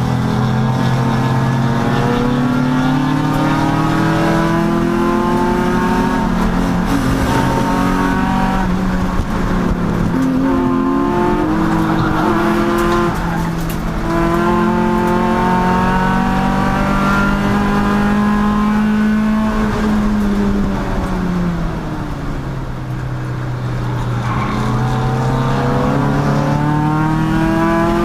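Race car engine under hard acceleration, its pitch climbing and dropping with each gear change, then falling away for a few seconds a little past two-thirds through as it slows for a corner, before climbing again near the end.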